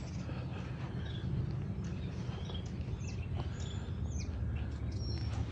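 Several short, high bird chirps and quick down-sliding calls over a steady low rumble from the motorcycle's engine.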